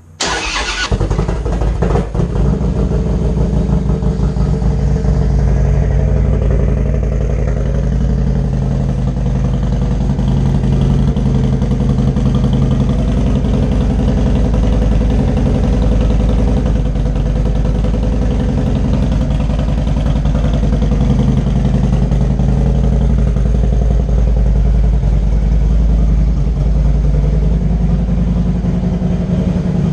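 Harley-Davidson Street Glide's Twin Cam 103 V-twin, fitted with 585 cams and a D&D Fat Cat 2-into-1 exhaust, cold-started: it fires up right at the start, then settles into a steady idle.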